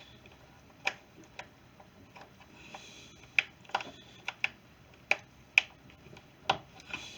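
Irregular sharp clicks and taps, about eight in all, of hand tools and plastic parts being handled while the air filter cover of a small string trimmer is refitted.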